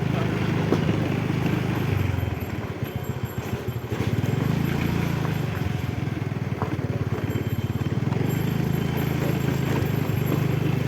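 A vehicle engine running with a low, pulsing rumble. It eases off about two seconds in and picks up again about four seconds in.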